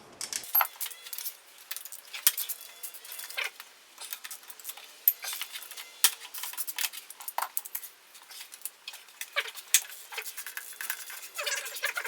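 Irregular light metallic clicks and clinks of hand tools working on metal parts in a car's engine bay.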